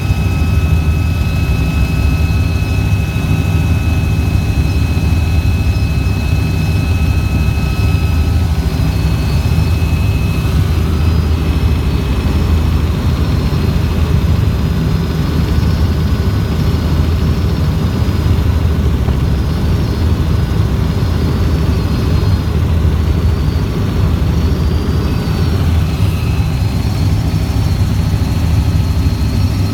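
Helicopter in flight: a steady, loud drone of rotor and engines, with a thin high whine that drops out about ten seconds in.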